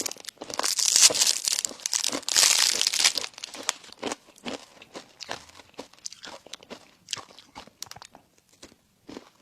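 Close-miked eating: loud crunching of crispy food for about the first three seconds, then quieter, scattered chewing clicks and smacks.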